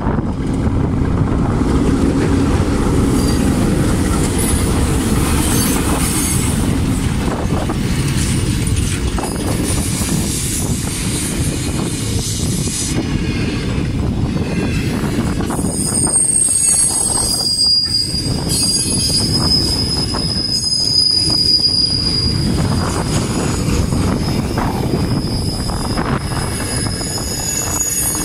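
Freight train hauled by a diesel locomotive passing close by, a heavy rumble of engine and wagon wheels on the rails. About halfway through, the wheels start a steady high-pitched squeal that carries on over the rumble.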